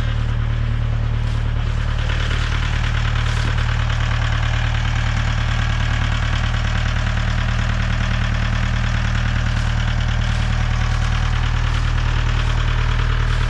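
Tractor engine running steadily at a constant low speed, with an even, unchanging pitch.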